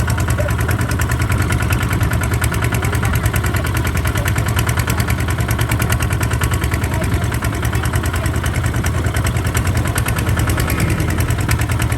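Kubota RT140 DI single-cylinder diesel engine on a walking tractor, running steadily at an even speed.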